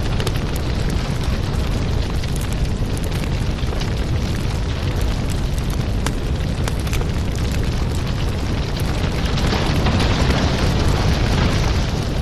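Fireplace fire burning with a steady low rumble and many small crackles and pops, growing a little louder and hissier about ten seconds in.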